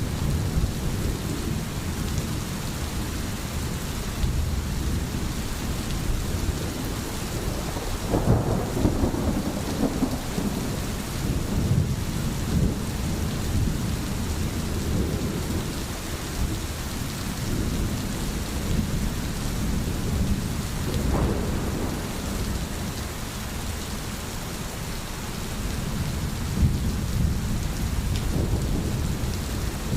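Steady rain falling, with low rolling thunder rumbling underneath; the rumble swells about eight seconds in, again around twenty seconds in, and near the end.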